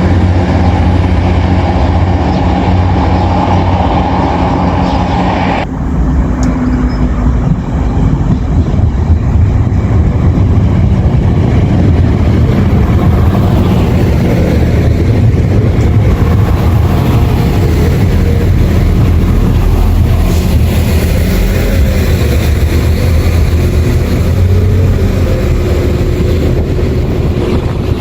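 Diesel train running close by, a loud, steady low engine rumble. The sound changes abruptly about six seconds in, then carries on as a noisier rumble with a wavering tone.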